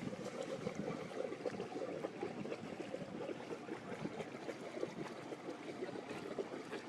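River water lapping and splashing, a busy, uneven patter with no steady tone.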